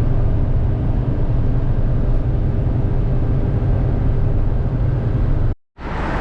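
An engine running steadily with a deep, even drone. It cuts out briefly about five and a half seconds in, and a similar drone picks up again.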